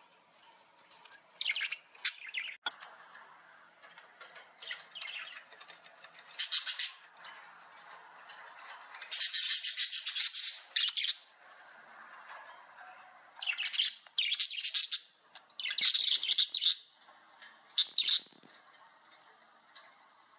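A bird chirping and squawking in short, high-pitched bursts, a handful of times, with quieter gaps between; the longest and loudest stretch comes about halfway through.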